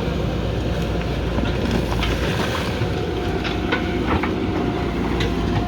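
JCB backhoe loader's diesel engine running steadily under work, with scattered metallic clanks and knocks from the bucket and arm.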